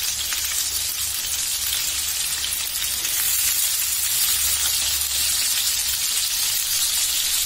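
Chicken skewers, tomato wedges and green peppers sizzling in hot oil in a frying pan: a steady, dense hiss.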